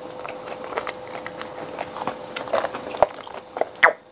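Close-up chewing of a shawarma wrap: wet smacks and small clicks from the mouth, with a few sharper, louder clicks near the end, over a faint steady hum.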